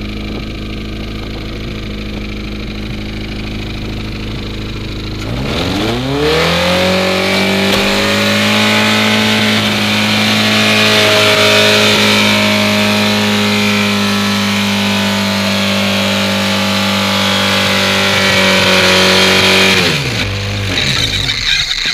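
Honda CRX engine idling, then revved hard about five seconds in and held at high revs for roughly fourteen seconds before dropping back near the end. The engine is a badly abused one, pouring smoke from the engine bay.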